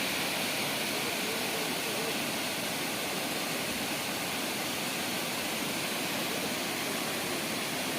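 Steady rush of water pouring over the dam's overflow bund, the reservoir full after the rains.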